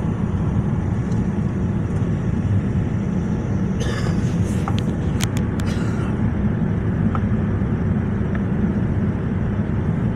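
Steady low roar of a Boeing 787 airliner's cabin in descent, engine and airflow noise. A few brief clicks and a rustle come about four to five seconds in.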